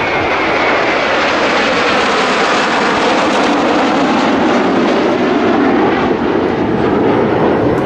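Kawasaki T-4 twin-turbofan jet trainers flying past with loud, steady jet engine noise. A high whine falls in pitch in the first second as an aircraft passes.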